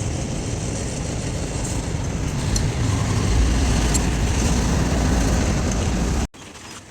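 Truck running on the road: a steady low rumble of engine and road noise that grows slightly louder about three seconds in, then cuts off abruptly shortly before the end.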